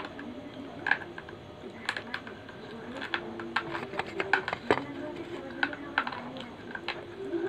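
Slate pencil crunching between the teeth close to the microphone: a string of sharp, irregular cracks and crunches as it is bitten and chewed.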